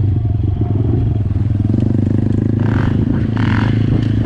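ATV engine running steadily under way, a loud low drone with fast even firing pulses, and two brief bursts of hiss about midway.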